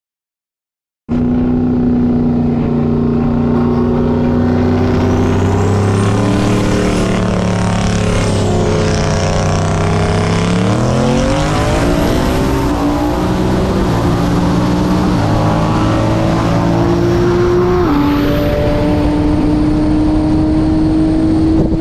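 Turbocharged car engine pulling hard in a race: the engine note holds steady, then climbs sharply in pitch as it accelerates and holds high, with a quick dip near the end that sounds like an upshift. A faint high whine rises early on the run. The sound cuts in abruptly about a second in.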